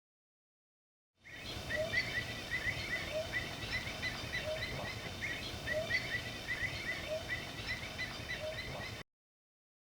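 Birds calling outdoors: many short chirps over a steady background hiss, with a lower note repeating about once a second. It starts about a second in and cuts off suddenly near the end.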